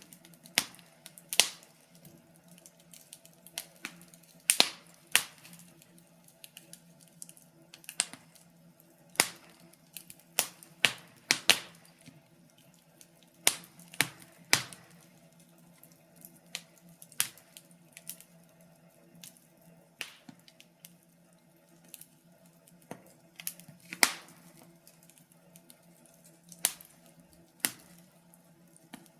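Wood fire crackling: irregular sharp pops and snaps, some in quick clusters, over a faint steady low hum.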